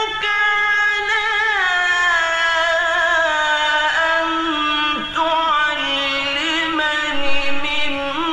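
A man's voice reciting the Quran in slow, melismatic mujawwad style, holding long notes that glide and step between pitches, with a brief break about five seconds in.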